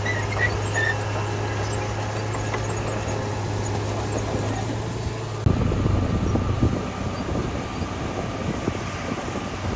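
Heavy construction machinery running, a steady diesel engine drone, with a louder, rougher rumble starting about five and a half seconds in.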